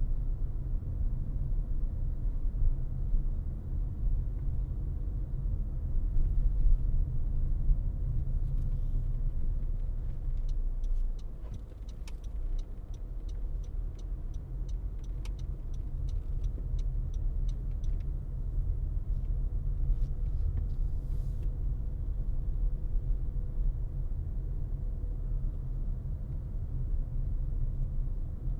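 Car driving on a road: steady low rumble of tyres and engine. In the middle comes a run of quick, evenly spaced ticks, about three a second, for several seconds.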